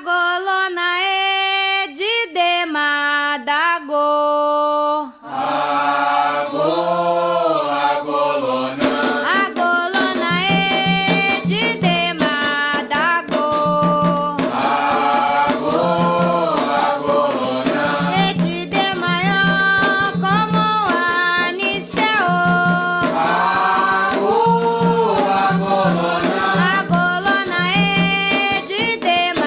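Afro-Brazilian devotional chant to Xangô: one voice sings a line, then a chorus of voices joins about five seconds in, over a steady beat of hand percussion.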